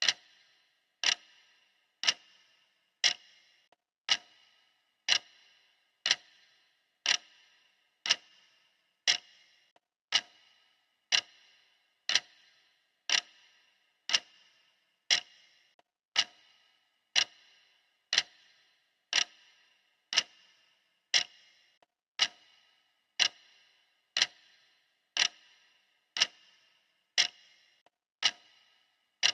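Clock ticking steadily, one sharp tick each second, each tick trailing a brief ring.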